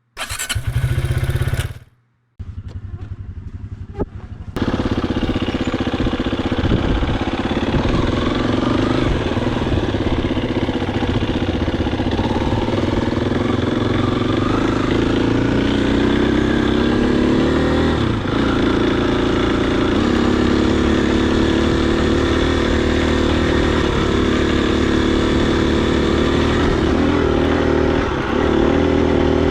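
Husqvarna FE250's single-cylinder four-stroke engine running as the dirt bike rides along, its pitch rising and falling with the throttle. The engine sound comes up loud about four and a half seconds in, after a short loud burst at the very start and a brief drop-out.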